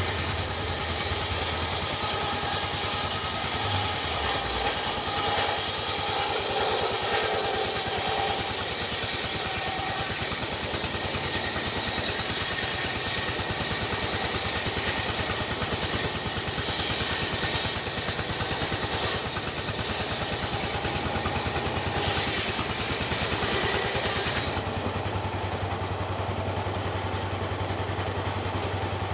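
Small engine running steadily with a fast, even firing pulse. About three-quarters of the way through, the sound changes abruptly and loses its hiss.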